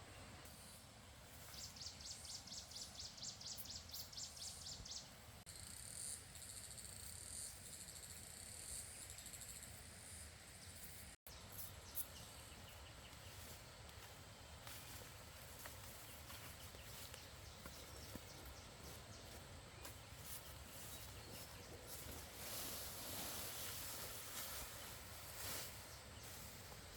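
Forest insects calling: a high, evenly pulsed chirping at about six pulses a second for a few seconds, then a steady high buzz, over quiet woodland ambience. The sound drops out for an instant about halfway through.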